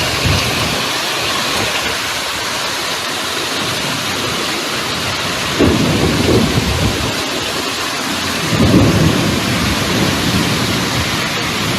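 Heavy rain pouring steadily, with two low rumbles of thunder, one about halfway through and one a little later.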